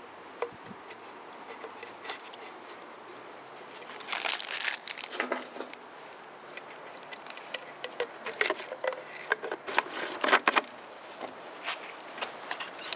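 Hand-handling noises of small parts: scattered clicks, light scrapes and rustles as an in-tank fuel filter is fitted onto a rubber fuel hose. The handling is busier about four seconds in and again from about eight to ten and a half seconds.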